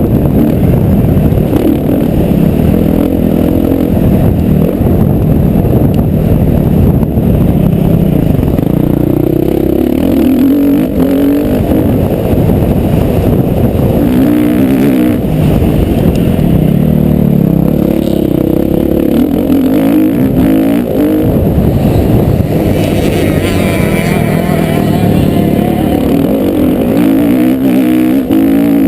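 Motocross bike engine revving hard and easing off again and again as it is ridden round a dirt track, its pitch climbing and dropping every few seconds.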